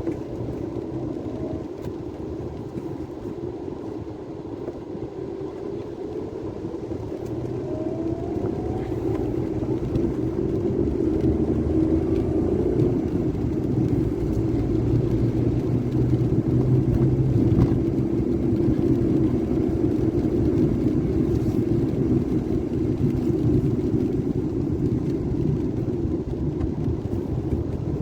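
Vehicle engine and road noise heard from inside the cab, a steady low drone that grows louder about a third of the way in as the vehicle picks up speed.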